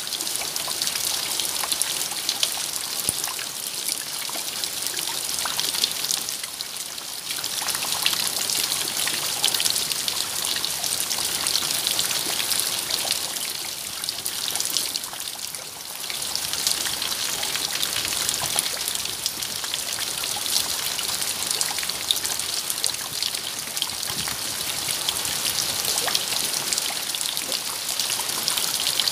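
Steady rain, a dense hiss of many small drop impacts, easing a little twice.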